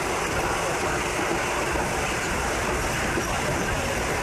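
Passenger train running on the Tamsui line, a steady, even noise with no distinct clacks or squeals.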